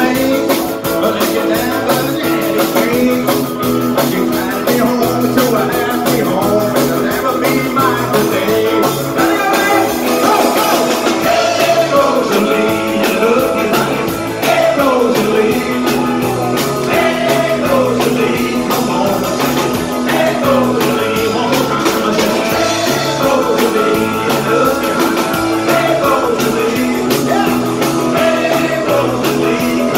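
Rock band playing a rock and roll song, with a steady beat and bass under a melodic line that bends up and down in pitch.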